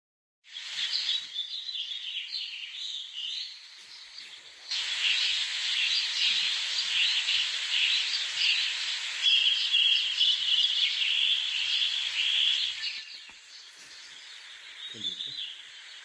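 Dense, continuous high-pitched bird chattering and calling, quieter briefly about four seconds in and again from about thirteen seconds in.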